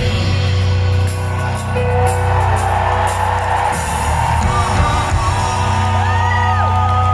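Live rock band playing the outro of a song after the last sung line, with the concert crowd cheering over it and a few rising and falling whistles near the end.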